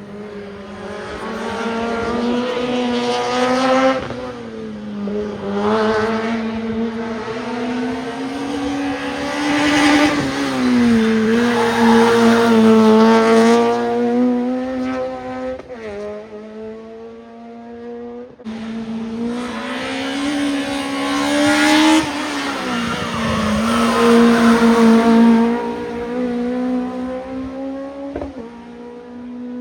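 Race car engines on a hillclimb at full throttle, one car after another. The engine note climbs steeply through each gear and drops sharply at every upshift, swelling as each car passes, with a cut to another car about 18 seconds in.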